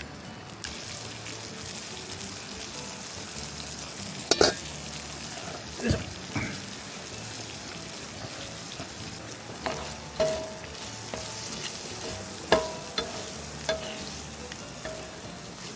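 Food sizzling in a frying pan, a steady hiss, with a dozen or so scattered clinks and taps of a utensil against the pan.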